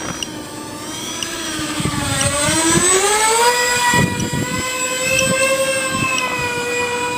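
Electric ducted fans of an RC A-10 Warthog model whining, rising in pitch about two seconds in as they are throttled up, then holding a steady high whine, with a few dull thumps along the way.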